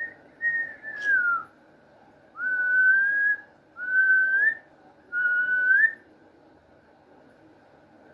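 Clear, pure whistling: a couple of short gliding notes with a brief click about a second in, then three rising whistles of about a second each.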